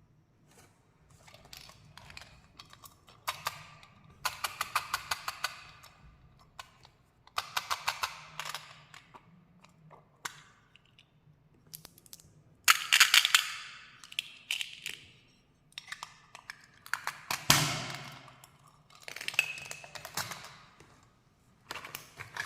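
Repeated bursts of crisp crackling and clicking, each a second or two long with short pauses between: candy and its packaging being handled, crinkled and crunched close to the microphone.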